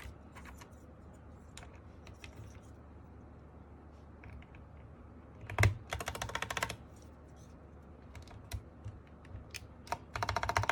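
MK870 mechanical keyboard being put together and its keys pressed: scattered light clicks, a knock about halfway followed by a short burst of rapid clicking, and a second burst of rapid clicking near the end.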